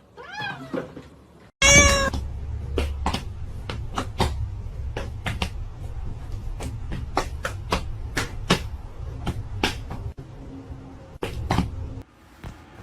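A cat meowing, a short falling meow followed by a louder, longer one about two seconds in. After that comes a long run of sharp, irregular clicks or taps over a low rumble.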